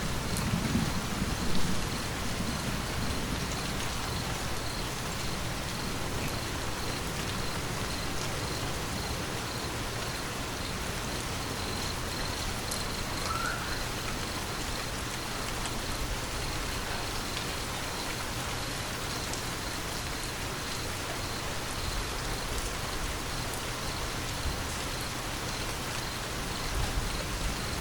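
Steady rain falling as an even hiss. The tail of a low thunder rumble fades out over the first two seconds, and another rumble starts to build near the end.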